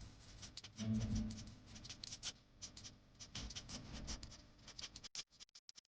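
Rapid, irregular light clicks and rustles, several a second, over a faint background that drops away almost completely near the end.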